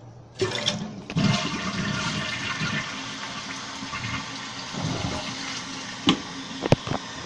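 A 1995 Vitromex Marathon toilet flushing with its tank lid off: a short sound, then about a second in a loud rush of water that eases slowly as the tank drains and refills. Two sharp clicks come near the end.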